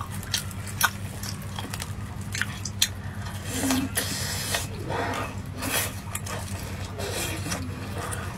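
Close-miked eating sounds: plastic-gloved hands handling a pan-fried glutinous rice cake with red bean filling, with sharp little clicks at first, then biting and chewing from about three seconds in. A steady low hum runs underneath.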